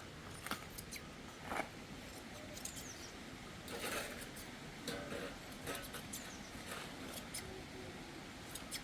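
Scattered small clicks and brief scratchy rustles at irregular intervals over a low steady background.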